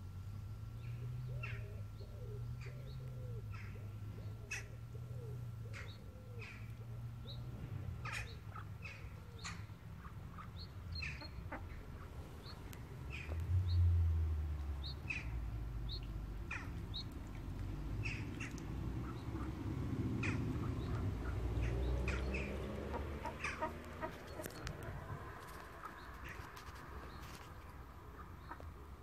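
Birds chirping: short, high calls repeated irregularly, about two a second, over a low rumble that swells briefly about halfway through.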